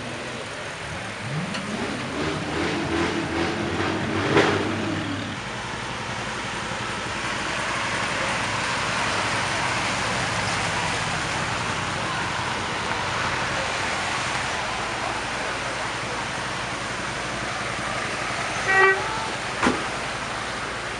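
A classic American V8 car's engine revving up as it pulls away, its pitch climbing for a few seconds, then a steady mix of idling parade cars and crowd noise. Near the end, two short car horn toots.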